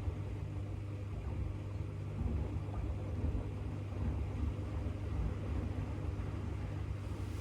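AEG 8000 Series LR8FL160EX front-loading washing machine running a wash cycle: a steady motor hum over the low rumble of the turning drum and load.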